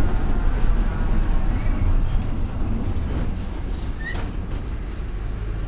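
Mercedes-Benz OF-1722M bus's turbocharged diesel engine running with a low rumble. From about two seconds in, a thin, high, steady turbocharger whistle sits over the engine noise, and the sound eases off gradually toward the end.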